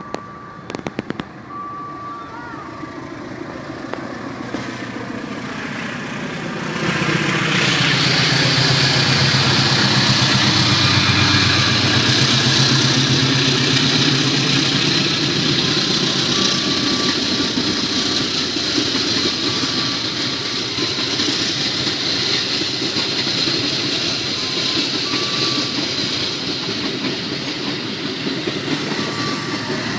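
Train passing through a station without stopping: it comes in louder over the first seconds and its pitch drops as the front goes by about seven seconds in. Then the carriages roll past in a loud, steady rush.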